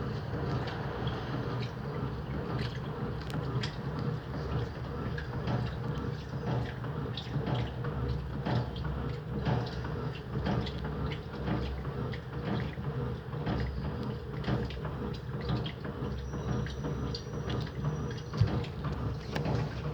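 Electrolux LT09B top-loading washing machine running, a steady low motor hum with water sloshing and many irregular small knocks and splashes.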